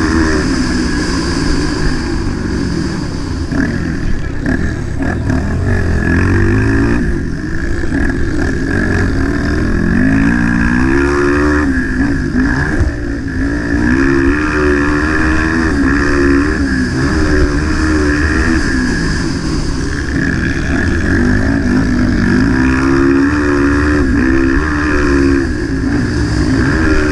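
Motocross bike engine running hard, its pitch repeatedly rising under throttle and dropping off, over and over.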